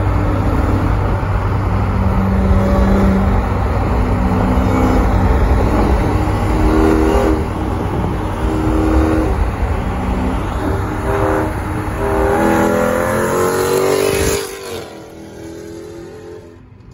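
High-performance car engine revving and accelerating hard, its pitch holding and then climbing in steps over a steady low rumble, before the sound drops away suddenly near the end.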